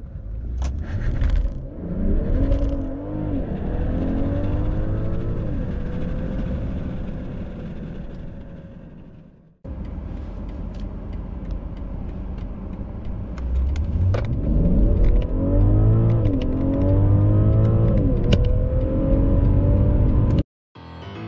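BMW 745e plug-in hybrid's turbocharged inline-six under full-throttle acceleration from a standstill, heard from inside the cabin. The engine note climbs and drops back at each upshift of the automatic gearbox. The sound breaks off about nine and a half seconds in, a second run starts at once, and it cuts off suddenly near the end.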